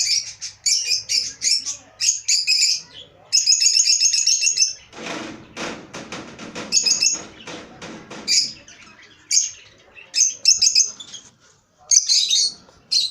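Lovebirds chirping in quick runs of sharp, high calls. A rustling noise comes in about five seconds in and lasts about three seconds.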